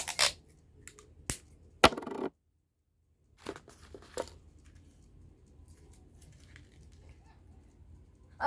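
A few sharp clicks and taps of small objects being handled and set down on a desk, with a short rustle about two seconds in, then faint room noise.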